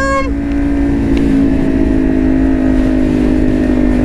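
Kawasaki Ninja 400's 399 cc parallel-twin engine running at a steady cruising speed, with wind rumbling over the helmet-mounted camera's microphone.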